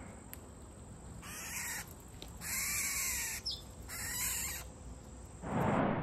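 Birds at a backyard feeder giving three harsh, rasping calls about a second apart, with a loud whoosh near the end.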